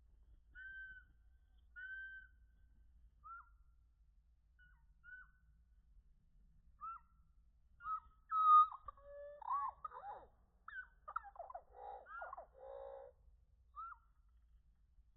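Chickadees calling, slowed down so the calls sound lower and drawn out: scattered short hooked call notes, the loudest just after 8 s, then a run of buzzy, chickadee-dee-dee-like notes from about 11 to 13 s.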